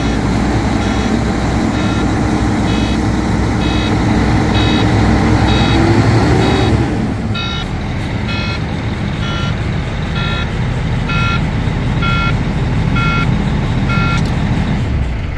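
Cummins ISX diesel engine of a Volvo VNL truck running, its note easing lower about halfway through. A steady electronic warning beeper sounds about once a second throughout.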